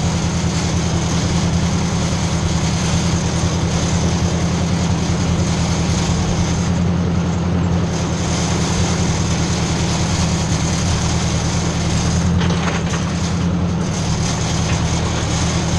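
Ford 600 tractor engine running steadily under way in third gear, a constant low drone with no change in speed.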